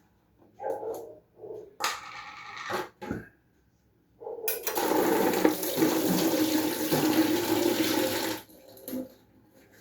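Water running from a tap for about four seconds, starting a little after four seconds in and cutting off sharply. A briefer rush of noise comes about two seconds in.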